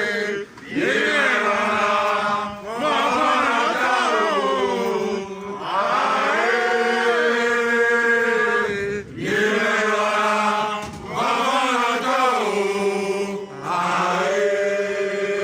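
Voices chanting in long, held phrases, each lasting a few seconds with a short break between them.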